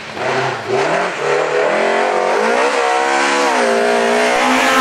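Rally car's engine revving hard as it accelerates, the pitch climbing, dropping briefly and climbing again as it changes gear.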